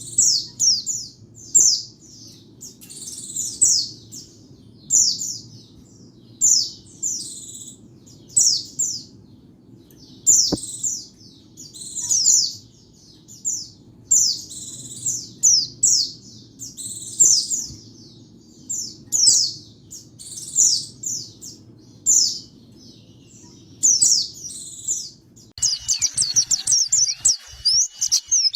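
Pleci (white-eye) song: short bursts of thin, high chirping notes repeated about once a second. Near the end it changes abruptly to a faster, continuous twittering.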